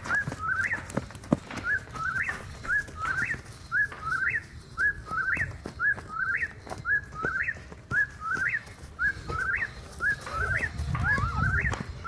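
A bird calling over and over: a short whistled note followed by a quick rising chirp, repeating about one and a half times a second. A low rumble comes in near the end.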